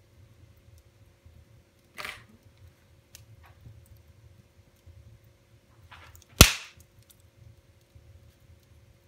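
Wood fire in a fireplace crackling with faint scattered ticks, a small pop about two seconds in and a sharp, loud crack of burning wood about six seconds in.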